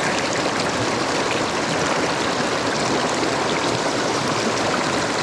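Small mountain stream rushing steadily over rocks, a constant wash of moving water with no change in level.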